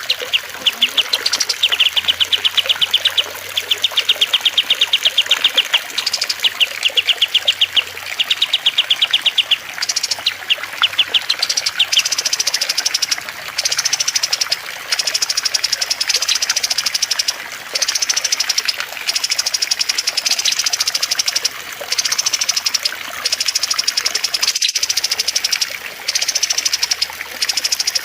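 Looped recordings of small songbirds singing rapid trilled phrases, each a second or so long with short gaps, over steadily trickling water. The trills sit lower for about the first twelve seconds, then switch to higher, thinner phrases. A single sharp click comes near the end.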